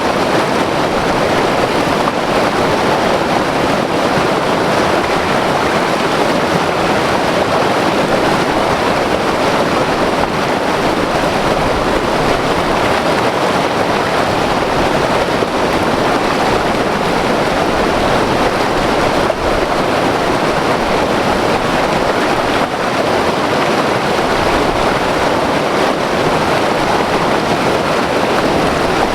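White-water river rushing over rocks: a loud, steady roar of turbulent water.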